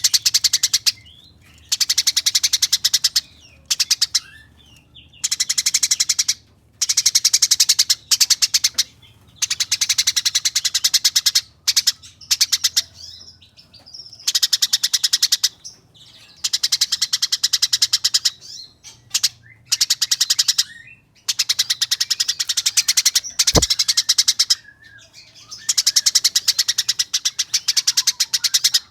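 Eurasian tree sparrow giving rapid, harsh, rolling chatter in repeated bursts of one to two seconds with short pauses between: the agitated 'fighting' call.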